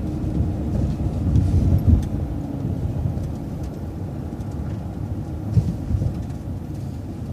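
City transit bus driving, a steady low engine and road rumble heard from inside the bus, with a short knock about two seconds in and another about five and a half seconds in.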